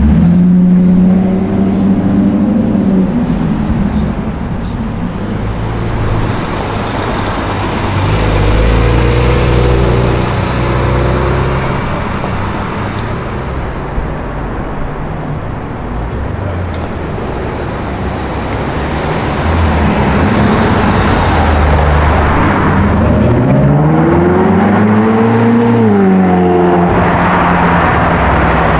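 City traffic with car engines running. Near the end a car engine revs up and back down loudly, its pitch rising and then falling.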